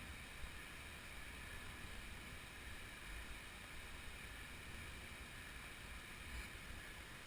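Faint steady rushing noise with a low rumble underneath, even throughout with no distinct events.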